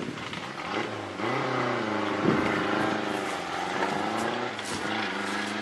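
Rally hatchback's engine revving up as the car pulls away, climbing in pitch from about a second in and dropping back at a couple of gear changes.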